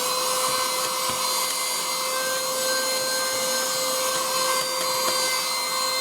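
Vacuum cleaner running steadily, a constant motor whine over airflow hiss, sucking dust out of a PlayStation 4's disc drive area.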